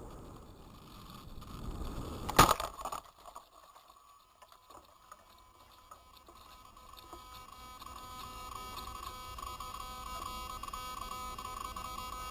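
Wind buffeting a Spy Hawk RC plane's onboard microphone, cut by one sharp, loud impact about two seconds in, the plane crash landing. Afterwards it is quieter, and a steady high-pitched hum slowly grows louder.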